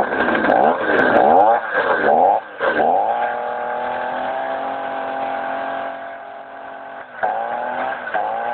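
Two-stroke chainsaw engine driving a bicycle's back wheel, just bump-started by pedalling. It is revved in quick up-and-down blips for the first couple of seconds, settles to a steady run with its pitch slowly sinking, and is blipped again about seven seconds in.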